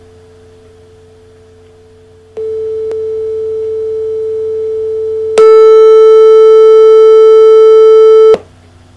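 A steady sine test tone played from an HP ENVY 15 laptop through a speaker. It starts faint, jumps much louder about two seconds in, then jumps again to its loudest about five seconds in, where it turns harsh and buzzy with distortion. It cuts off suddenly about three seconds later. A faint low hum sits underneath throughout.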